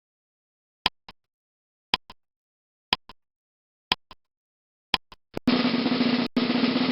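Countdown-timer sound effect: a tick-tock once a second, five times, then a loud buzzing burst of about two seconds that marks time up.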